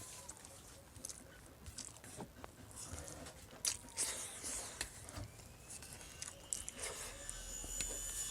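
Close-miked eating of paksiw na bangus, milkfish stewed in vinegar: wet chewing and biting with frequent sharp mouth clicks and smacks. Near the end a thin high steady tone comes in faintly.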